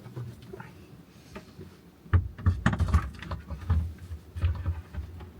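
Irregular knocks and taps inside a van, a few a second, starting about two seconds in and ending with one sharp click.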